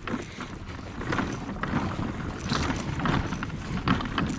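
Kayak on the water with irregular bumps, knocks and rustles of gear being handled and moved aboard.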